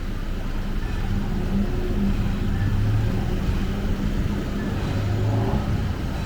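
A motor vehicle's engine running close by in street traffic, a steady low hum that swells about halfway through and again near the end.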